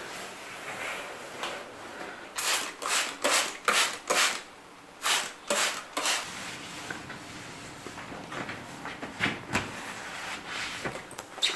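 A run of about eight quick rubbing strokes, roughly two a second, between about two and six seconds in, followed by quieter rustling and light handling noises.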